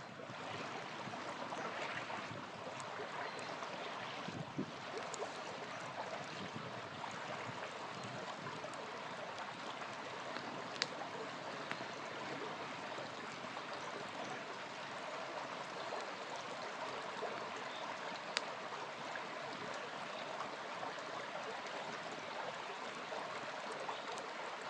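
Small river flowing steadily, with a few sharp pops from a wood campfire, the clearest about 11 and 18 seconds in.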